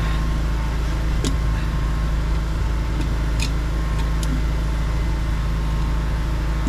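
An engine running steadily at idle, a constant low drone, with a few light clicks about one, three and four seconds in.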